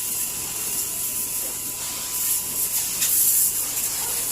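Water spraying steadily from a coin-operated car wash's pressure hose, a continuous hiss over a low steady hum.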